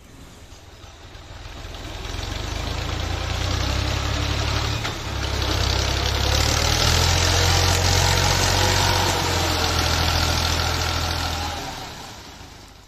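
Tractor engine running under load to turn a tubewell pump through its tyre. It grows louder over the first couple of seconds, holds loud with its pitch rising and easing back, then dies away near the end.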